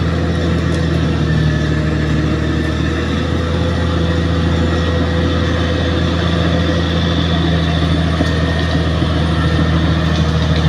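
Bulldozer's heavy diesel engine running steadily, a deep even drone.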